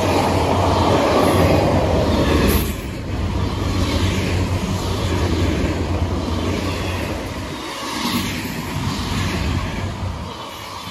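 Freight train of autorack cars rolling past at a grade crossing: a steady rumble and rattle of steel wheels on the rails. It is loudest for the first couple of seconds, then eases slightly.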